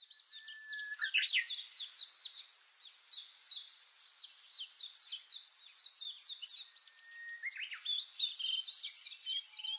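Songbirds singing: a dense run of quick, high chirps that sweep downward, broken by a long steady whistle about seven seconds in.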